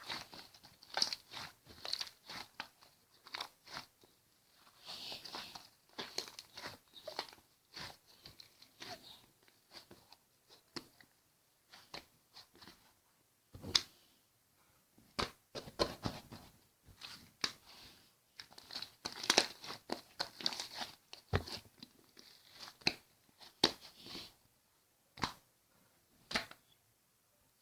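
Hands working a slime: irregular crackling pops and squishes as it is pressed, folded and stretched, some coming in quick clusters.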